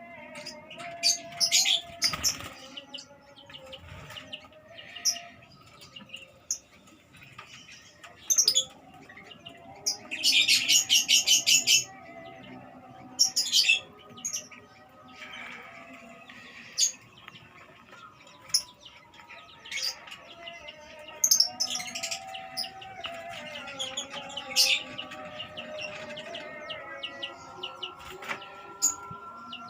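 Many lovebirds chirping shrilly in short, sharp calls, with a loud burst of rapid chattering about ten seconds in.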